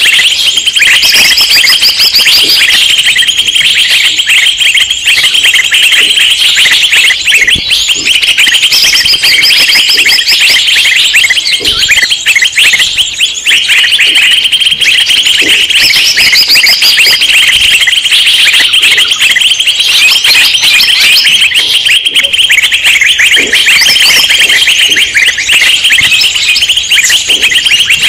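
A loud, unbroken chorus of many small birds chirping and chattering over one another: a noisy 'ribut' bird-lure recording made to draw in wild birds.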